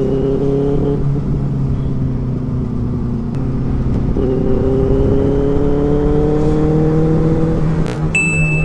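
Benelli 600i's inline-four engine running on the move. Its note climbs steadily for a few seconds under throttle, then drops off near the end with a short click.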